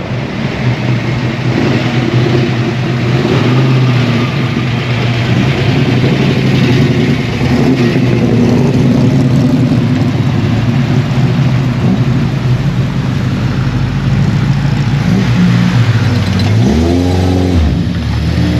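Muscle car engine idling with a deep, steady rumble, blipped once near the end with a quick rise and fall in revs.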